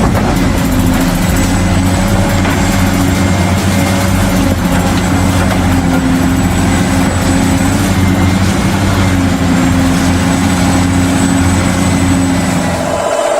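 RC excavator running, with a steady heavy engine rumble. The sound changes abruptly near the end, where the low rumble drops away and a higher tone takes over.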